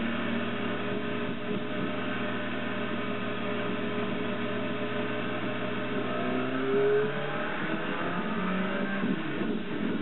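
Motorcycle engine running while riding, its note rising between about five and seven seconds in and then changing pitch.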